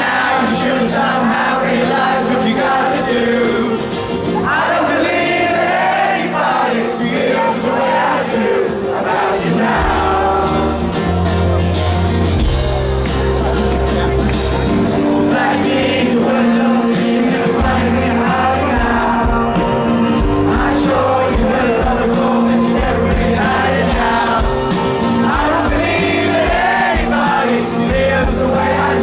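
Live rock band playing with a singer, the crowd audible underneath.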